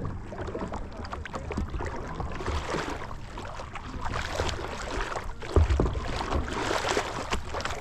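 Water splashing and sloshing from a paddle board being paddled, swelling every couple of seconds with the strokes, with wind rumbling on the microphone.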